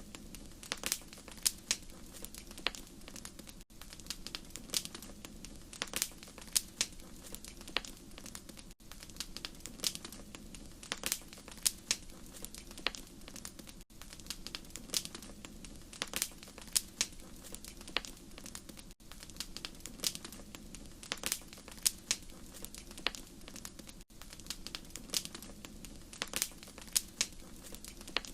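Wood fire crackling, with frequent sharp irregular pops and snaps over a steady low rumble of flame. A brief drop in level recurs about every five seconds.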